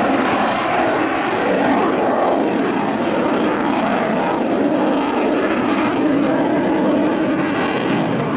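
Aircraft engine of an airplane in flight, a loud steady drone whose pitch drifts slightly as it moves.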